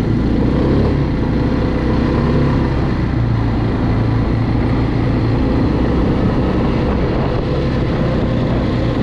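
Quad bike engine running steadily under way, its pitch holding nearly even with only slight rises and falls.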